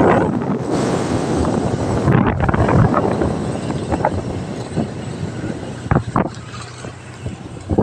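Motorcycle running while riding along, with wind rushing over the microphone and a steady low engine hum underneath.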